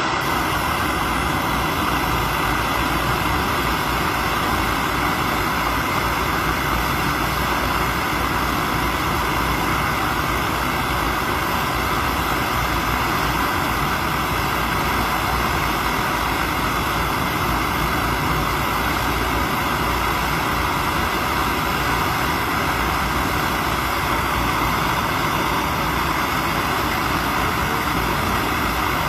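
A steady, unchanging machine drone, like an engine or motor running, with a hiss strongest in the middle range and a few faint steady tones.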